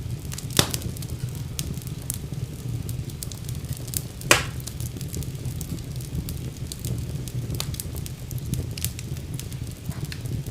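Wood fire burning in a fireplace: a steady low rumble of flame with scattered crackles and pops, two of them louder, one just after the start and one a little past the middle.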